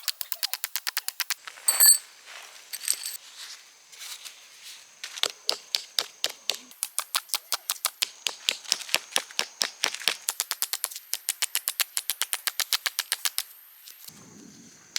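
Rapid, evenly spaced clicking, about six clicks a second, in runs broken by short pauses, with a brief high ding about two seconds in.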